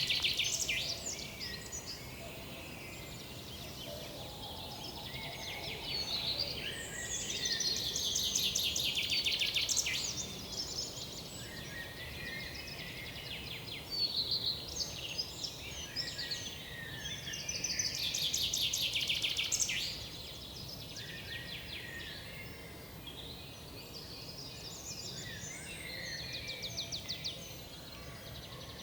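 Several woodland songbirds singing and calling at once, with louder bouts of fast, rapidly repeated trilling notes about a quarter of the way in and again about two-thirds in, over a steady low background noise.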